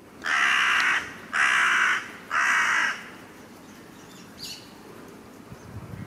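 A bird giving three loud, harsh calls in quick succession, each under a second long, followed by a faint short call about four and a half seconds in.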